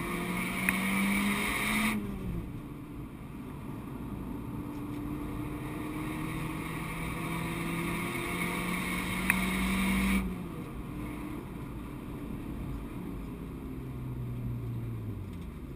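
Renault Clio 172's 2.0-litre four-cylinder engine heard from inside the cabin under hard track driving, revs climbing under power and falling away as the throttle is lifted about two seconds in. It pulls up through the revs again, then drops off sharply about ten seconds in and runs more quietly at lower revs, with a couple of brief sharp clicks along the way.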